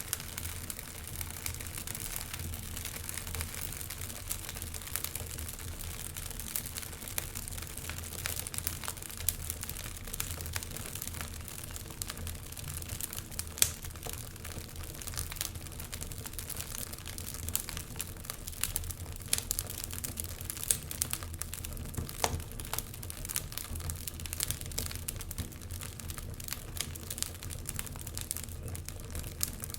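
Wood fire burning in a fireplace, crackling with frequent irregular pops and snaps over a low steady rumble; one pop about 13 seconds in is the loudest.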